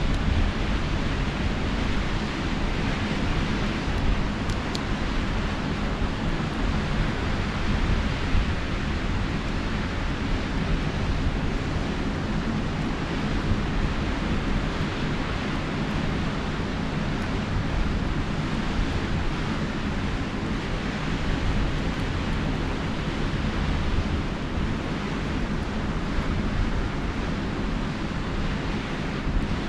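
Steady rush of sea surf on the beach with wind buffeting the microphone, and a few faint crackles from a campfire.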